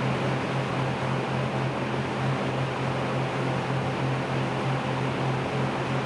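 Lakewood Windsor P-23 20-inch box fan running steadily: an even rush of air from its aluminum blade over a low, steady motor hum.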